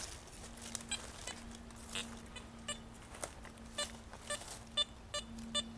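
Metal detector giving a target signal: short pitched beeps about three a second, starting about halfway through and running on. Before the beeps come a few scrapes and clicks, with a faint steady hum underneath.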